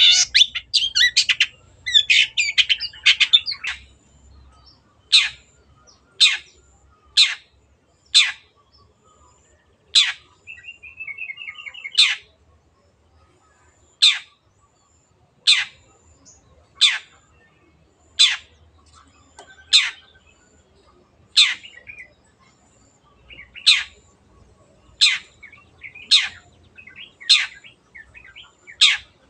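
Long-tailed shrike (cendet) calling. It opens with a few seconds of rapid, harsh chatter, then gives a long run of single sharp notes that drop steeply in pitch, about one every second or so, with a short fast trill near the middle.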